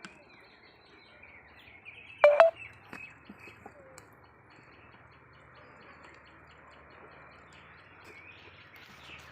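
Birds chirping, with one short, loud sound about two seconds in, then a quieter stretch of faint background hiss and a low hum.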